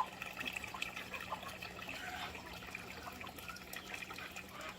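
Water trickling and splashing, with small irregular drips and clicks.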